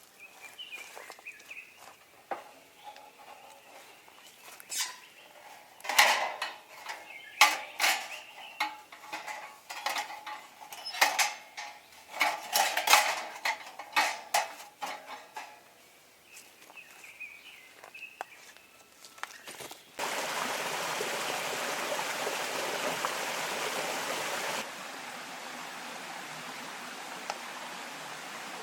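Metal camp cookware and utensils clinking and clattering in scattered bursts. About twenty seconds in, a steady rush of running stream water starts abruptly and drops to a lower level a few seconds later.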